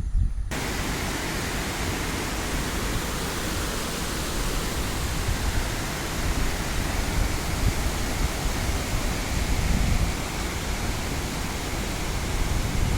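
Steady, loud rush of falling water, as from water pouring through the dam's spillway. It cuts in suddenly about half a second in.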